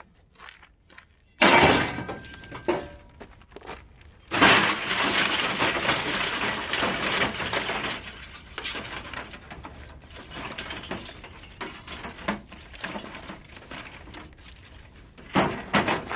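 Loose scrap being thrown and dumped: a sharp crash about a second and a half in, then a bigger crash whose clattering rattle dies away over a few seconds, and another crash near the end.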